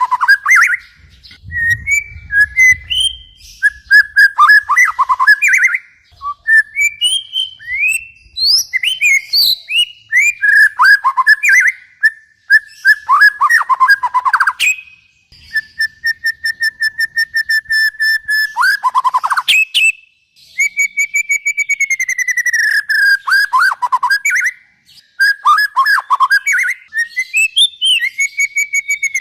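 A songbird singing a loud, varied song: whistled phrases, sweeping notes and fast trills of rapidly repeated notes, delivered in bursts with short pauses between them.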